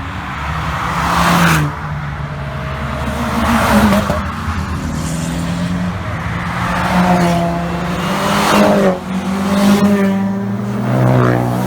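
Modified cars' engines and exhausts revving hard and accelerating away one after another, in a series of loud throttle bursts. The pitch climbs and falls with each burst, and one rev is cut off sharply about nine seconds in.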